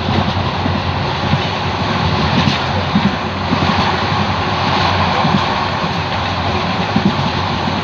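Kalni Express passenger train running at speed: a steady, loud rushing and rumbling of the moving train heard from a seat by the window, with no let-up.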